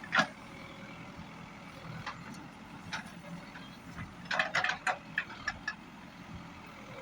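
CAT 424B backhoe loader's diesel engine running steadily under load while it mixes soil. Short sharp sounds cut in over it: one just after the start, one each about two and three seconds in, and a quick cluster between four and six seconds.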